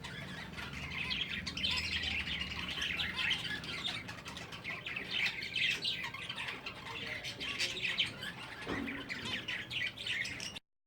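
Pet finches chirping: many short, high calls overlapping in a busy, continuous chatter, which stops suddenly near the end.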